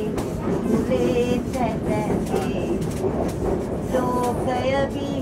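Passenger train running along the track, the wheels clacking irregularly over rail joints, with people's voices in the carriage over the running noise.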